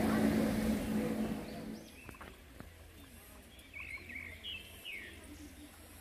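Birds calling: several short, curving chirps a few seconds in, over a faint steady hum. A louder murmur of voices fills the first two seconds.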